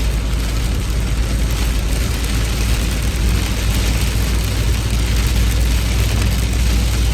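Heavy rain falling: a steady hiss over a constant low rumble.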